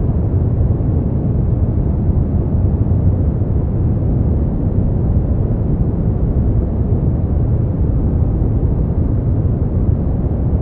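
Continuous generated sleep noise: a steady, deep rushing sound, even throughout, with little treble.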